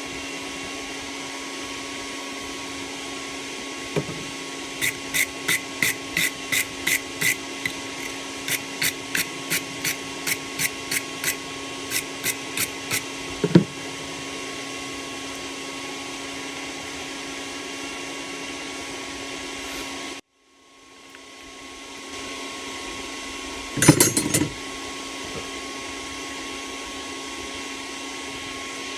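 Hammer blows on hot steel over an anvil: about twenty quick ringing strikes in three runs, roughly three a second, with a steady forge blower hum behind them. Near the end a short clatter of metal sounds, and the hum drops out suddenly once and comes back.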